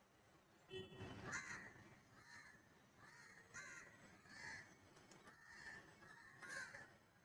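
Faint bird calls in the background: a run of short calls, about two a second, starting about a second in.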